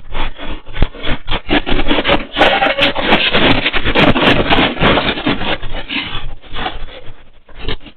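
A house rattling and creaking in strong earthquake shaking: a dense, irregular clatter of knocks and scraping that swells about two seconds in, stays loud for a few seconds and eases off near the end.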